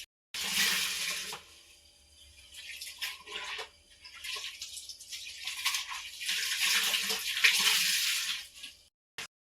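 Water splashing and sloshing in uneven bursts as clothes are washed by hand in a basin, louder at the start and again from about six seconds in, then cutting off abruptly near the end.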